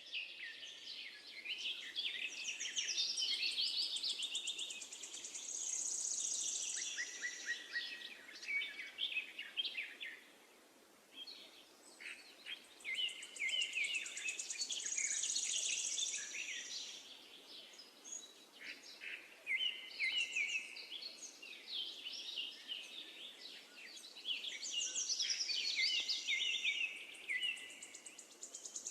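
Songbirds singing long, varied phrases of chirps and high trills in three bouts, with short lulls between them, over a faint steady background hiss.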